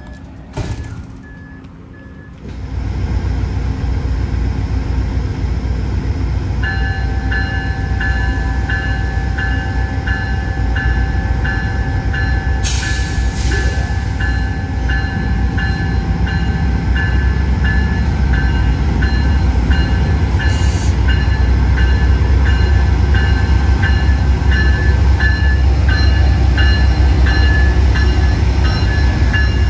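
Amtrak passenger train's diesel locomotive running loud and close, a heavy low rumble that comes in suddenly a couple of seconds in. A bell rings in an even rhythm, about two strokes a second, through most of it, and a brief hiss cuts through about thirteen seconds in.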